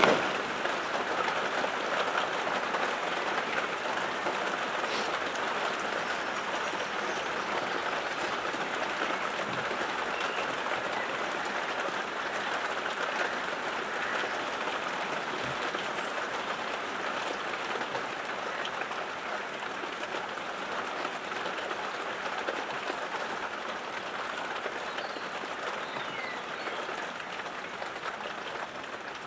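Steady rain falling, a continuous hiss with the tick of individual drops, easing off slightly over the half minute.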